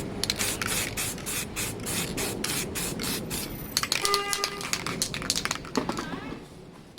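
Aerosol can of satin black spray paint hissing in many short bursts as a light tack coat goes on; the spraying thins out and stops near the end.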